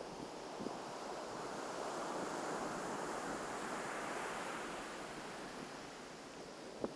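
Surf on a beach: one wave swelling into a rush of water over a couple of seconds and then easing as it washes back. There are two short clicks, one near the start and a louder one at the very end.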